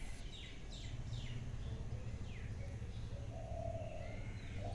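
A small bird chirping: a few short calls, each falling quickly in pitch, mostly in the first half, over a low steady background hum.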